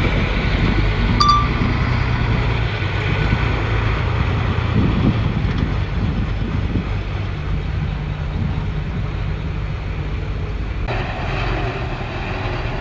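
Komatsu bulldozer's diesel engine running steadily under work, a low drone. About eleven seconds in the sound abruptly turns brighter, with added hiss.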